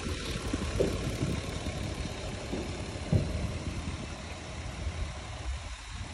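Toyota 1JZ-GE 2.5-litre inline-six engine idling steadily, with two brief thumps about one and three seconds in.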